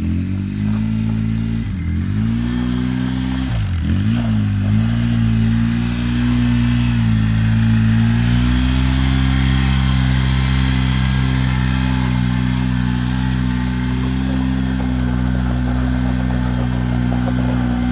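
An engine running, its speed dipping sharply twice in the first few seconds and recovering, then holding a steady speed.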